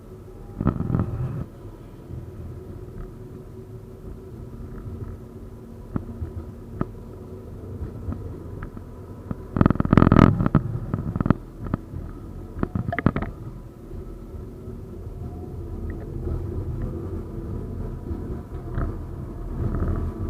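71-931M Vityaz-M tram running on its rails: a steady rolling rumble with a faint steady whine, broken by a clattering burst about a second in, a louder one around halfway, and scattered clicks.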